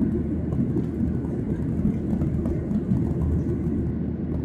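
Steady low rumble inside the cabin of a Boeing 737-800 with its CFM56-7B engines running, heard from a window seat.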